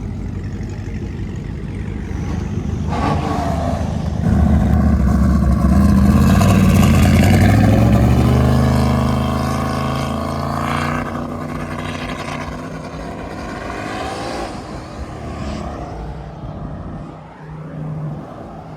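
A car engine accelerating hard at close range, getting suddenly louder about four seconds in with its pitch climbing, then fading away as it pulls off.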